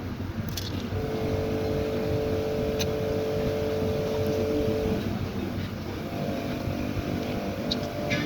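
An engine running steadily with a droning tone that eases off about five seconds in and comes back a second later.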